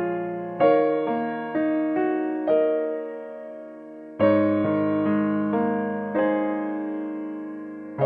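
Slow, gentle piano music: soft chords and single notes struck every half second to a second, each left to ring and fade.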